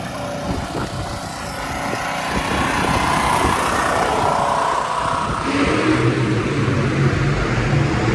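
A motor vehicle engine grows louder over the first few seconds. From about five and a half seconds in, a steady low engine note holds.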